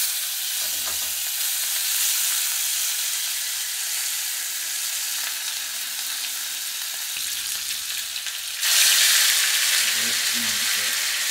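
Pieces of seasoned barracuda frying in oil in a frying pan: a steady, sizzling hiss that grows louder near the end.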